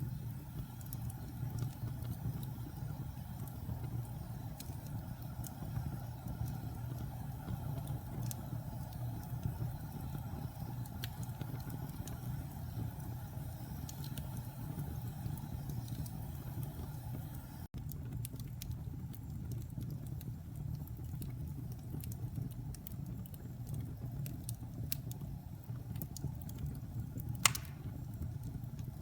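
Wood fire burning in a fireplace: a steady low rumble of flames with scattered small crackles, and one sharper pop near the end.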